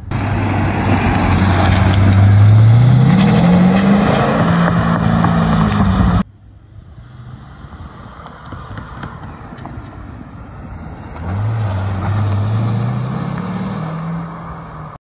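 2010 Corvette Z06's 7.0-litre V8 accelerating, its note climbing steadily in pitch. After a sudden cut, it is heard quieter and further off, climbing in pitch again as the car pulls away.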